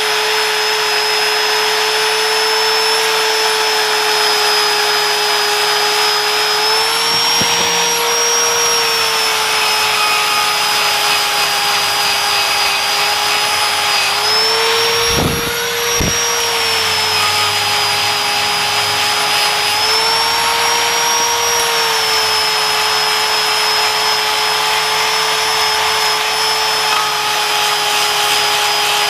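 Power tool spinning a fibre-plastic rust-stripping pad against metal on a brake job: a steady high whine that rises and sags in pitch every few seconds as the pad is pressed on and eased off, with two short knocks about halfway through.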